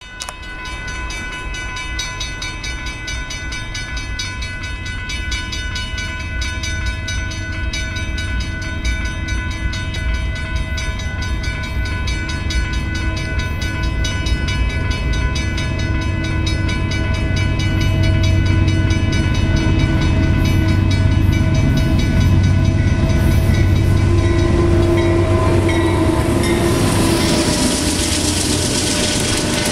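Union Pacific diesel locomotives leading a freight train approach, getting steadily louder, with the horn sounding a long, steady chord over the low engine rumble. Near the end the lead locomotive passes: the horn drops in pitch and rushing wheel-and-rail noise takes over.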